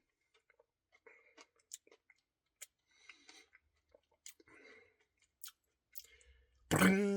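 Close, quiet mouth sounds of chewing cookie dough Blizzard ice cream: soft wet smacks and scattered small clicks. A short vocal sound comes near the end.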